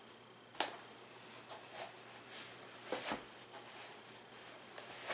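A sharp click about half a second in, then a few softer clicks and knocks around the three-second mark, over faint room noise.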